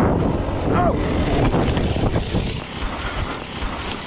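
Heavy wind rumble buffeting the microphone of a camera on a moving motorcycle, easing off a little over the last second or two, with a brief voice-like sound about a second in.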